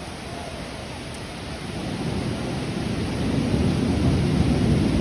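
Rain falling steadily, with a low rumble that swells and grows louder from about two seconds in.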